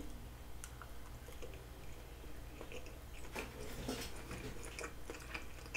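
A person chewing a mouthful of steamed dumpling close to the microphone: soft chewing with scattered small, wet mouth clicks.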